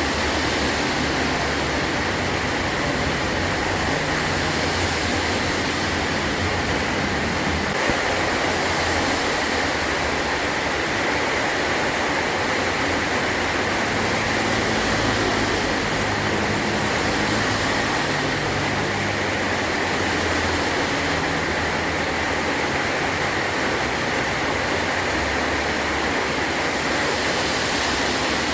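Heavy rain drumming steadily on a metal tin roof.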